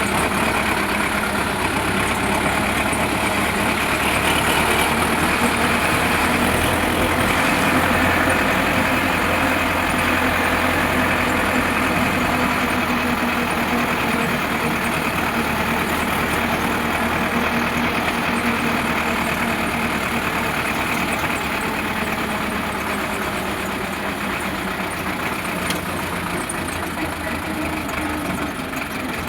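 Sonalika DI 750 tractor's diesel engine running steadily, easing off slightly near the end.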